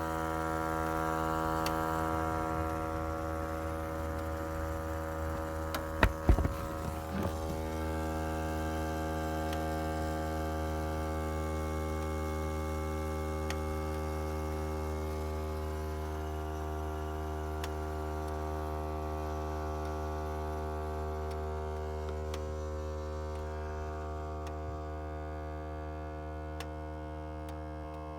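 2012 Volvo S60 making a steady electrical buzz with the engine off, many overtones and no change in pitch, easing slightly toward the end; the owner is unsure whether it is normal. A few short knocks about six seconds in.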